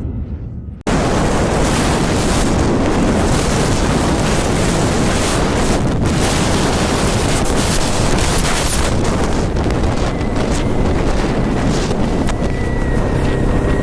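Loud, steady rush of wind blasting over a microphone on a moving motorcycle, typical of a mic left outside the rider's helmet. It cuts in suddenly under a second in, after the tail of a piece of music.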